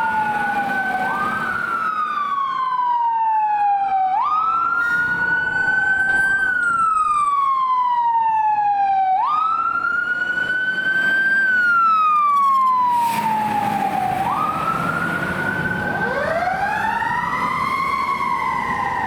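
Fire engine siren on a slow wail, each cycle jumping up in pitch and then falling slowly over about five seconds. Near the end a second siren sweeping at a different pitch overlaps it.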